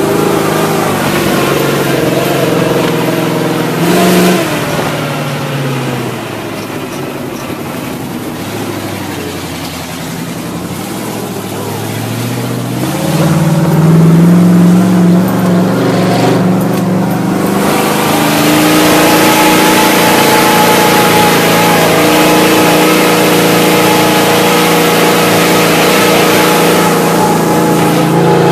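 Monster truck engine running under load, its revs falling away early on, climbing again about halfway through, then holding steady and loud.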